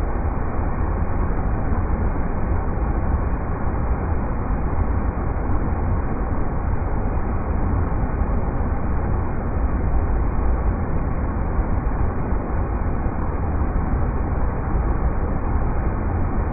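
River rapids rushing steadily, a dense even noise with a strong low rumble and no breaks.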